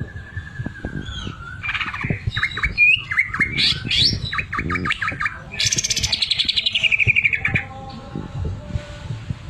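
Green leafbird (cucak ijo) singing a varied song: a long, slightly wavering whistle gliding down, then quick chirps and notes, and about halfway through a fast stuttering trill that slides down in pitch for about two seconds.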